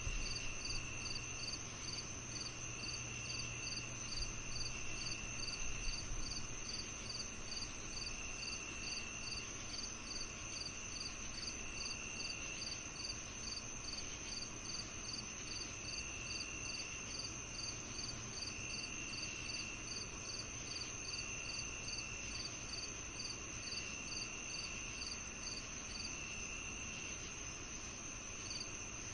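Evening insect chorus of crickets and other insects calling together: a continuous high-pitched trill, a regular chirping at about two chirps a second, and a lower trill of about a second that comes in every two to three seconds.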